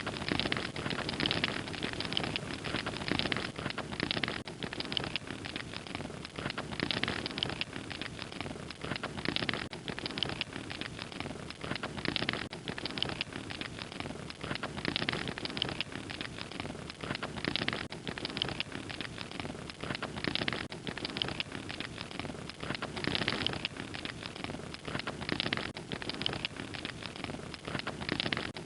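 Fire crackling steadily: many small pops and snaps over a constant hiss.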